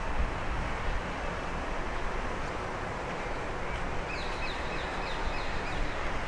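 Steady outdoor background noise, a low rumble under a hiss, with a bird's quick run of repeated high chirping notes starting about four seconds in and lasting about a second and a half.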